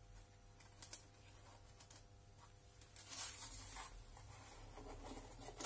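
Near silence, with a few faint small clicks and a soft scraping rustle starting about three seconds in, as of small parts being handled on a workbench.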